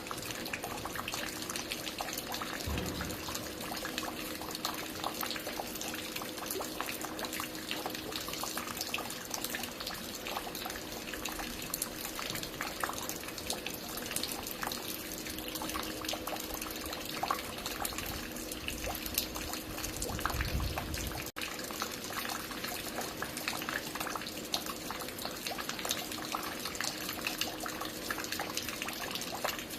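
Water falling and dripping on a construction site: a steady, dense patter of many drops splashing, with a faint steady hum underneath. A low rumble swells about twenty seconds in, and the sound cuts out for a split second just after.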